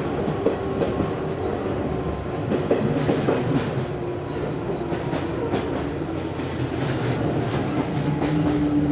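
Izu Hakone Railway Series 3000 electric train running, heard from inside the car: wheels clicking over rail joints under a steady rumble. A motor and gear whine falls slowly in pitch, as the train eases its speed.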